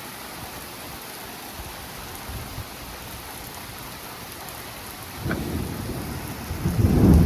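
Steady heavy rain, then about five seconds in a sharp crack of thunder from cloud-to-ground lightning, building into a loud low rumble near the end.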